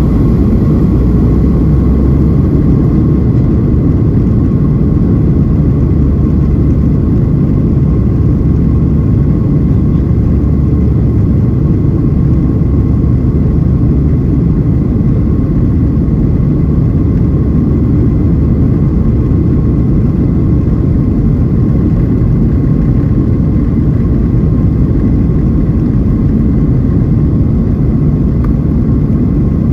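Steady cabin noise inside a Boeing 737-700 with its CFM56-7B jet engines running: a deep, even rumble with a thin steady whine on top.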